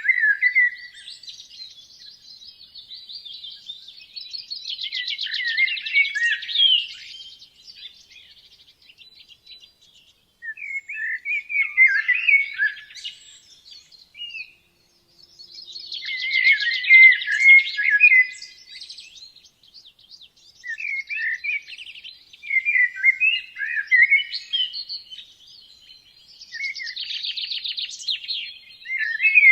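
Songbird singing in a forest, a string of varied phrases each lasting two to three seconds, mixing rapid trills with quick warbling notes, with brief pauses between phrases.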